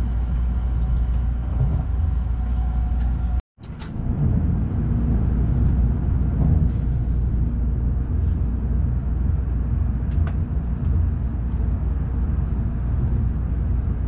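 Steady low rumble of a moving train heard from inside the passenger car: first a Shinkansen bullet train cabin with a faint steady hum, then, after a brief break about three and a half seconds in, a rougher running rumble that carries on to the end.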